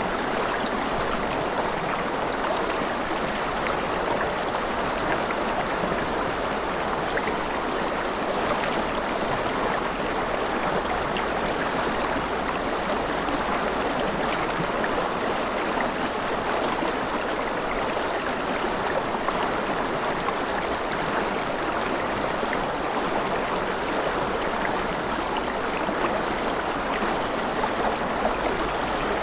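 River water flowing and splashing steadily, a dense even rush without pauses.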